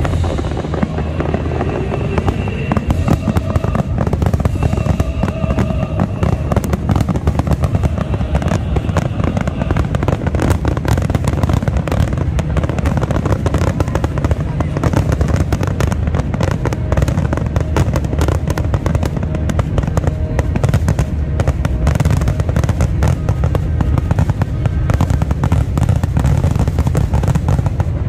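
Aerial fireworks bursting in rapid, unbroken succession: a dense run of booms and crackles at a steady, loud level.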